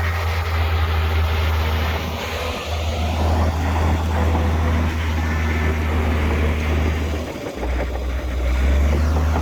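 Heavy diesel engine of earthmoving machinery running steadily with a deep low drone, briefly dipping about seven and a half seconds in.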